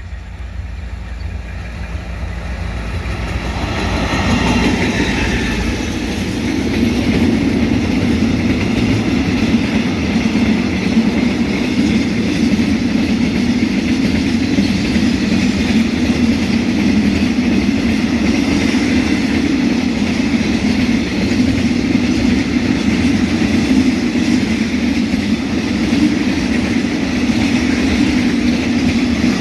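A train passing close by: its sound builds over the first few seconds, then a long, steady rumble and clatter of wheels on the rails as the cars go by.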